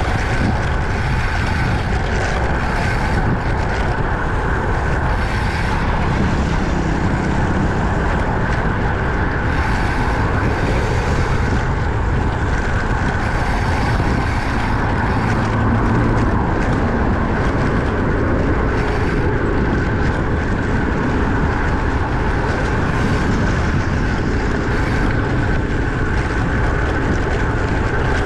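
Steady wind rush on the microphone mixed with tyre and road noise from a road bike riding at speed.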